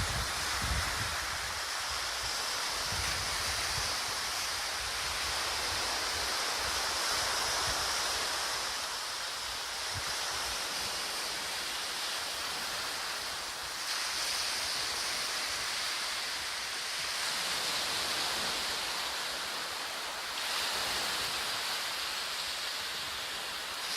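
Steady hiss of wind and Atlantic surf on a stormy beach, swelling and easing every few seconds. Wind buffets the microphone with a low rumble near the start.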